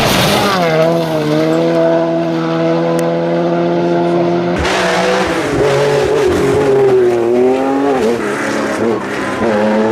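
Rally car engine running hard. Its note drops briefly and then holds steady for a few seconds. About halfway in, a rushing noise joins and the revs rise and fall repeatedly.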